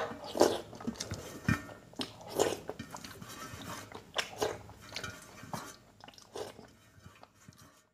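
Close-up mouth sounds of eating curry-soaked food by hand: irregular wet chewing and lip smacks, thinning out and getting quieter near the end.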